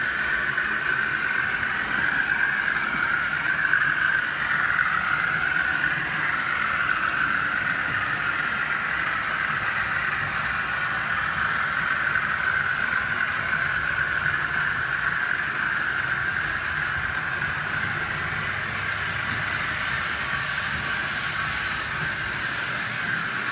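OO gauge model train running along the track: a steady whirr from its motor and wheels on the rails, a little louder in the first few seconds.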